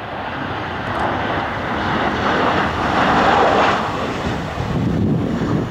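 Jet airliner passing close by, its engine roar swelling to a peak about three seconds in and then easing off.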